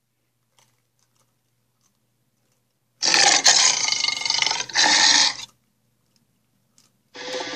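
Allosaurus roar sound effect: one loud, rough call of about two and a half seconds, with a short break near its end, coming after a few seconds of silence. A second call begins just before the end.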